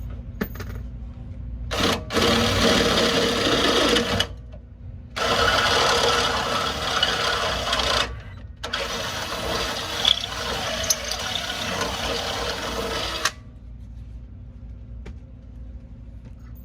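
Power drill boring out a shock-mount hole in steel to take larger grade 8 bolts, run in three long bursts with short pauses between, then stopping a few seconds before the end.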